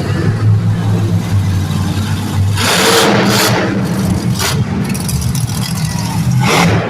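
Monster truck engine running and revving loudly, with short bursts of rushing noise over it about three seconds in and again near the end.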